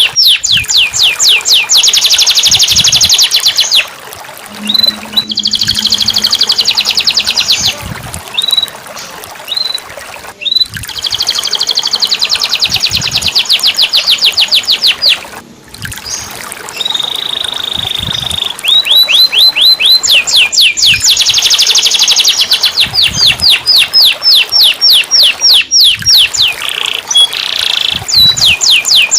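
Domestic canary singing a loud, fast song of rapid repeated trills and chirps, with one held whistle-like note partway through and a few brief pauses between phrases.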